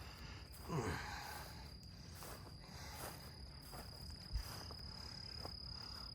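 Crickets or other insects keeping up a steady high-pitched drone. A brief falling pitched sound comes about a second in, and a short knock comes past the middle.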